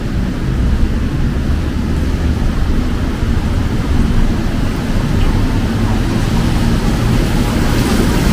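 Low, steady rumble of vehicle engines in street traffic, with no single vehicle standing out.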